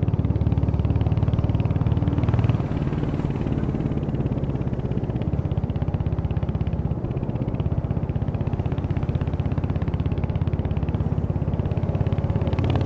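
Royal Enfield Hunter 350's single-cylinder engine running under way with a steady exhaust beat, easing off slightly about three seconds in and picking up again near the end.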